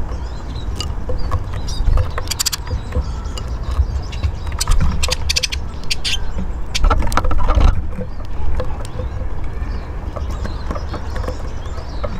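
Eurasian siskins at a bird table: clusters of sharp taps and scrabbling about two and a half, five and seven seconds in, with faint high chirps, over a steady low rumble.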